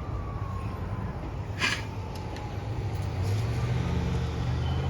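Police cars driving past with a steady engine and tyre rumble that swells after about three seconds. A siren's single tone slides slowly down in pitch and fades out over the first few seconds. One sharp knock comes about one and a half seconds in.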